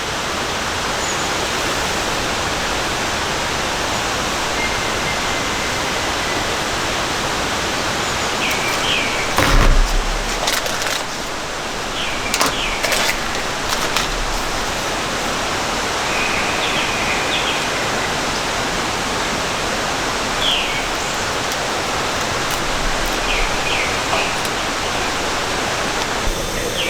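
Steady rain falling in a forest, an even hiss. A single low thump about ten seconds in, and a few short high bird chirps scattered through.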